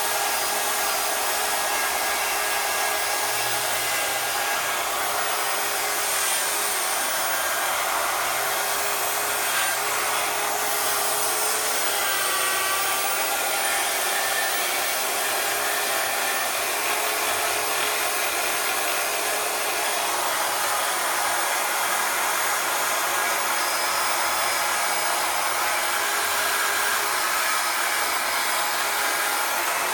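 Handheld power tool running steadily as it polishes an engine case, its motor note wavering slightly under load.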